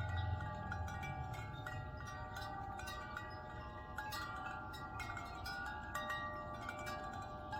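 Wind chimes ringing in a breeze: many overlapping tones keep sounding, struck again at irregular moments. A low rumble fades out during the first second.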